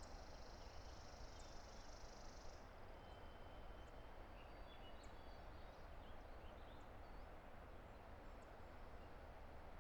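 Faint, steady rush of a distant river, with small birds chirping high above it. A thin, high buzzing trill holds for the first two and a half seconds, then stops, and scattered short chirps follow.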